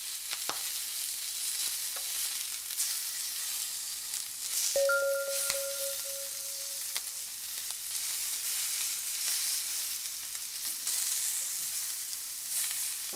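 Eel fillets sizzling on a grill, a steady hiss with scattered pops and crackles of fat. A short ringing tone sounds for about two seconds, starting about five seconds in.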